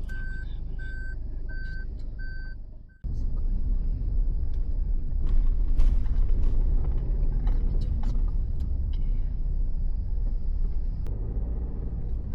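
A car's in-cabin warning beep repeating at an even pace, about three beeps every two seconds, typical of reverse gear being engaged. About three seconds in it cuts off suddenly and gives way to a car's engine and road noise heard from inside the cabin, a steady low rumble with scattered small knocks.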